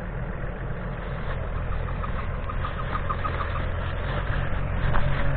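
Off-road 4x4's engine idling steadily while the vehicle sits stuck and cross-axled in a rut, unable to move on without its differential lock engaged.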